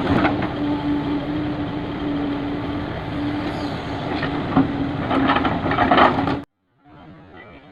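Dump truck's diesel engine running with a steady hum and scattered knocks. It cuts off abruptly about six and a half seconds in, and a much fainter rumble follows.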